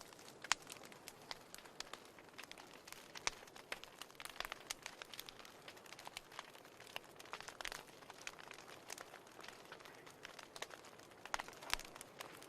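Fire crackling in a fireplace: irregular sharp pops and snaps over a soft hiss, with a louder pop about half a second in and a cluster of louder ones near the end.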